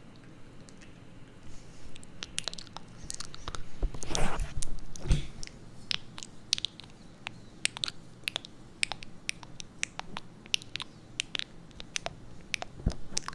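Close-miked crisp clicks and crackles coming irregularly, many to the second, with a denser rustle about four seconds in and a soft low thud just after.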